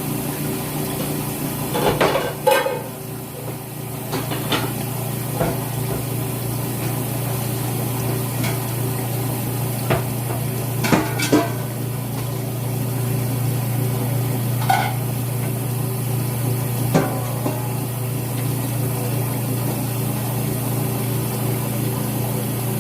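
Metal pots and pans clanking and knocking at scattered moments as a cooking pot is pulled out and handled, with the loudest clatters about two seconds in and about eleven seconds in. Under them a washing machine hums steadily.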